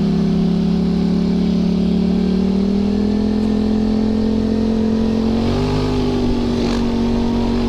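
Yamaha YZ450FX single-cylinder four-stroke dirt bike engine running steadily under throttle while riding, its pitch creeping slowly upward and stepping up about five and a half seconds in.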